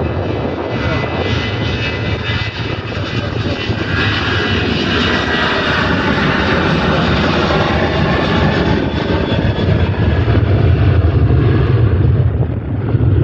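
Jet airliner passing close by, its engines a loud steady rushing noise, with a faint whine that glides in pitch through the middle.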